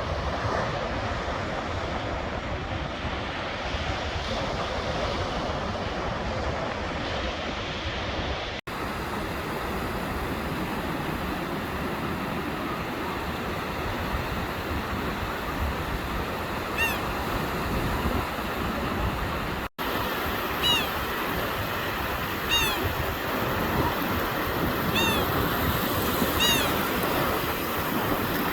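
Bird calls, short downward-slurred notes repeated in small clusters through the second half, over a steady outdoor rushing noise. Two abrupt cuts break the sound.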